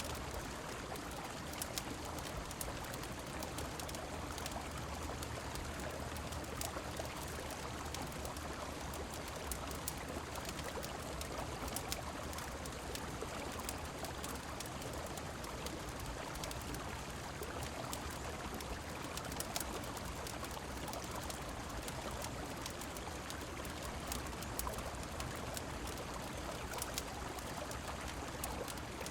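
Rain-on-river and fireplace ambience: a steady rush of flowing water and rain, dotted all through with brief sharp crackles.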